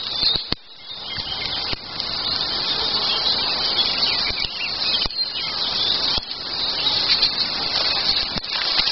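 Many birds singing at once in a dense, steady chorus, with a few faint clicks.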